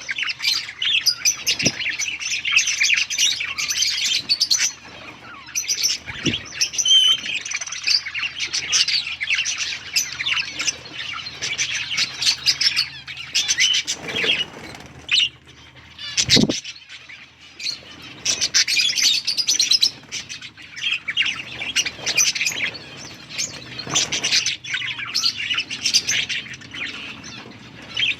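A colony of budgerigars chirping and chattering together, many birds calling at once without pause, with a couple of short low knocks along the way.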